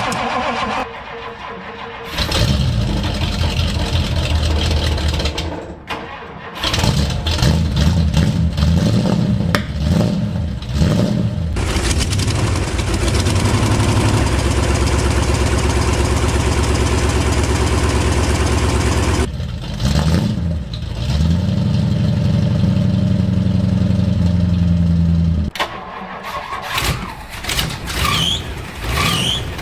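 A 1962 Ford Galaxie's V8 engine being started after long disuse. It fires and runs in several bursts a few seconds long, with short breaks between them, and runs steadily for about seven seconds in the middle before stopping again.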